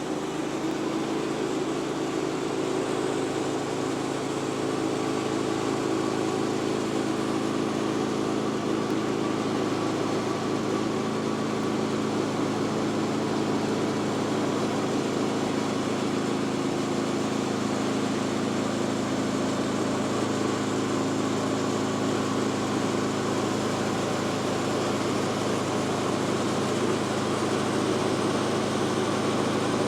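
Engine of a Woodland Mills HM126 portable band sawmill running steadily, with the saw running; it rises slightly about a second in and then holds an even level.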